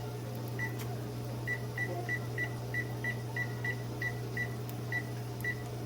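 Oven control panel beeping: a run of about a dozen short, high beeps, roughly three a second with uneven spacing, typical of keypad buttons being pressed to set the timer. A steady low hum runs underneath.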